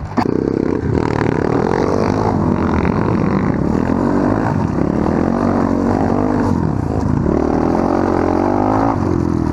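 Off-road motorbike or quad engine running as it is ridden, its revs rising and falling over and over.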